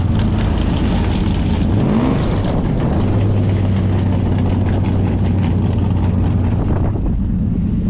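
Car engine and road noise heard from inside the cabin while driving; the engine note climbs briefly about two seconds in, as the car accelerates, then settles into a steady cruising hum.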